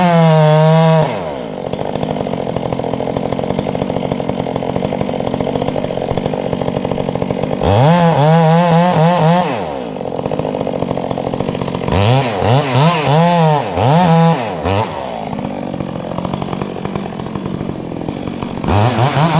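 Stihl chainsaw idling and repeatedly revved up to full throttle: a long rev near the start, another lasting about two seconds in the middle, three quick revs in a row a little later, and one more near the end.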